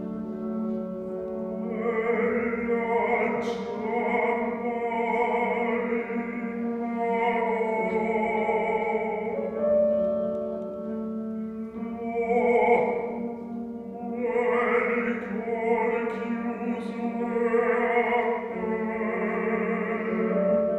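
Opera music: a singer over a small instrumental ensemble, with a steady low note held underneath and the melody moving in phrases of several seconds.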